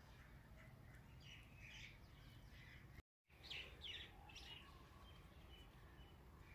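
Faint birdsong: small birds chirping in short scattered calls over a low steady hum. The sound drops out briefly about three seconds in.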